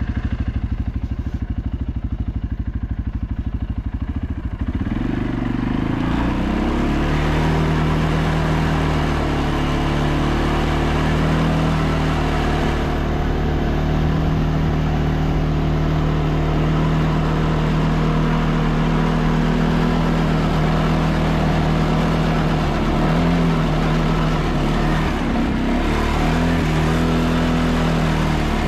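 ATV engine running under load in deep snow: a low, lumpy beat for the first few seconds, then rising about five seconds in to a higher steady drone that holds, with a few brief dips in pitch near the end.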